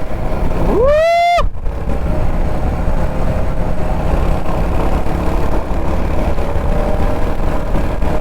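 Kawasaki Z900 inline-four motorcycle at highway speed: steady engine and wind noise. About a second in, a loud high tone rises sharply, holds briefly and cuts off abruptly.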